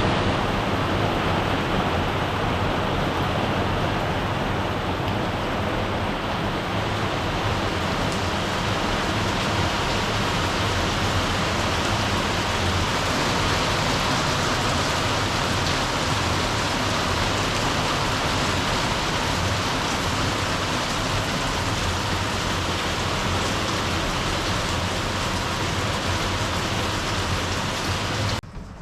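Rain falling steadily and loudly, in an even hiss with no let-up, that cuts off sharply near the end.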